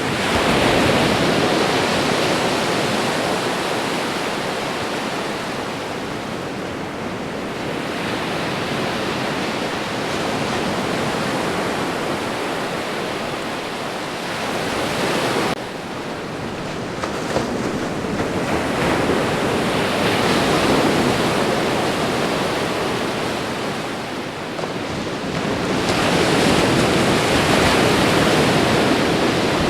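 Ocean surf: waves breaking and washing up in a continuous rush of noise that swells and eases every several seconds. There is an abrupt dip in loudness about halfway through.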